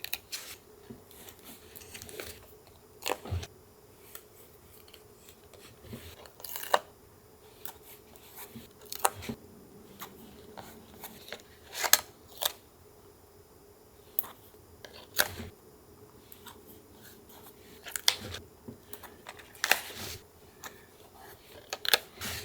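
Scissors snipping paper and paper being handled for collage, in scattered sharp snips and clicks every second or two.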